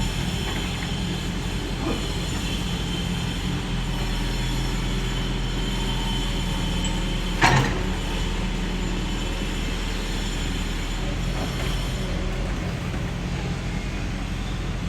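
Crawler bulldozer's diesel engine running steadily, with the squeak and clatter of its steel tracks. A single sharp metallic bang about halfway through.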